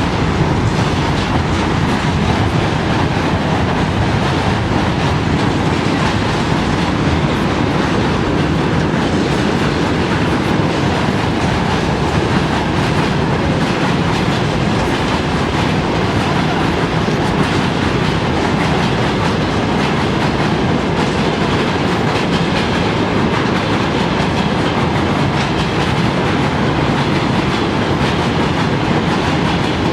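Freight train rolling steadily across a railway bridge: a continuous loud rumble of wagon wheels with an even clickety-clack of wheels over rail joints.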